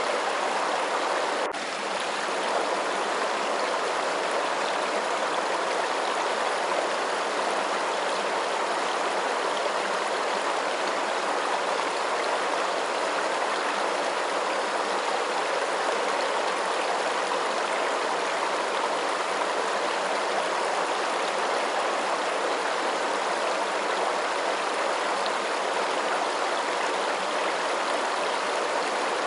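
Steady, even rush of flowing water, with a faint click and a brief dip in level about a second and a half in.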